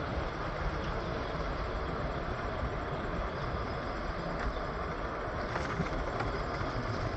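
PATH subway train running steadily: a constant rumble of wheels on the rails with a few faint ticks.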